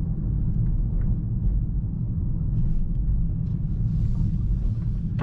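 Steady low rumble of a 2024 Mercedes-AMG S63 sedan cruising, heard from inside the cabin: road and drivetrain noise with no sudden changes.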